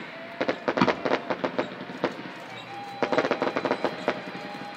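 Fireworks crackling and popping in quick runs of sharp reports, one spell early on and another about a second and a half later, with a faint steady whistle-like tone under them.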